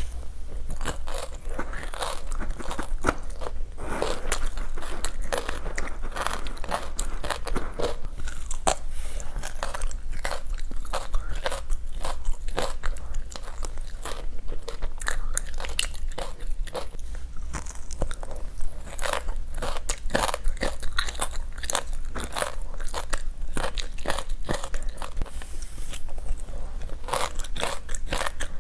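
Close-up biting and chewing of frozen creamy matcha chunks with buckwheat seeds: a dense, irregular run of crisp crunches and small popping crackles.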